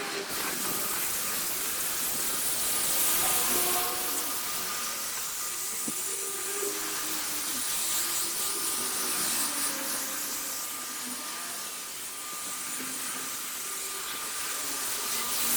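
Steady, loud hiss of a machine spraying or blowing, with a faint constant high tone running through it.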